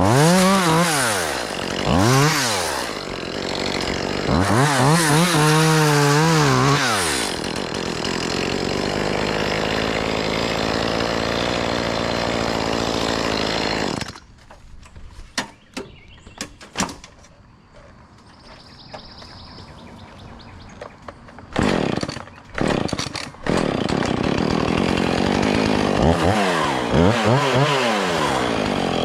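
Gas chainsaw revving up and down in several bursts, then running steadily for several seconds. About halfway through it drops away to a quieter stretch with scattered knocks, then comes back and revs up and down again near the end.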